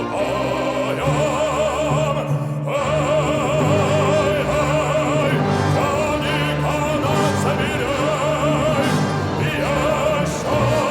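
Operatic bass voice singing with a wide vibrato over a full orchestra holding low sustained notes, with a short breath-like break about two and a half seconds in.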